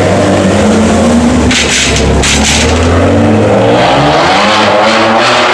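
Ferrari 599 GTB's V12 engine revving hard, its pitch climbing, with a burst of rasp about a second and a half in and the pitch climbing again near the end.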